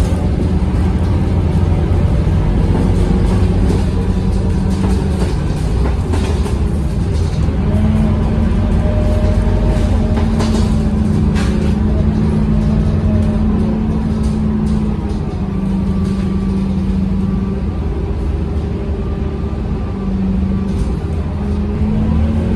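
Scania K230UB city bus's diesel engine running under way, its pitch rising and falling several times as the bus speeds up and slows, with a steady whine above the engine note.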